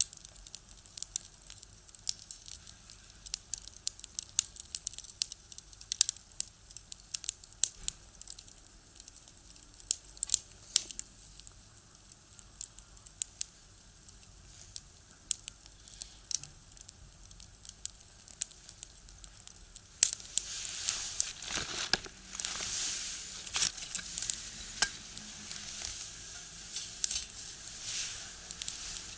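Firewood burning in a small box stove, crackling with frequent sharp pops. About two-thirds of the way through, a steady hissing sizzle joins the crackle and grows louder.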